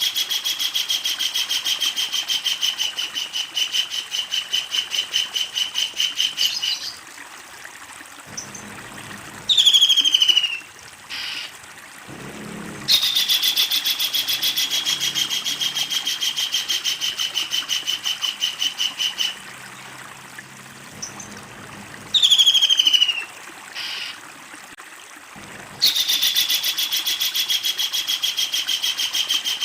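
Kingfisher calling: three long, loud rattles of rapid repeated notes, each slowly falling in pitch, with short falling calls in the gaps between them.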